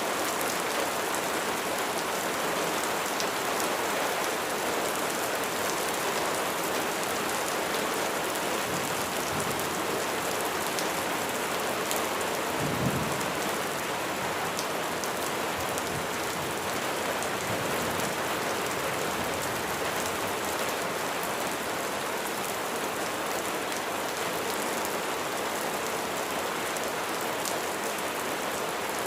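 Steady rain falling on a surface, a constant hiss with fine scattered drop ticks. About halfway through comes a brief low thump.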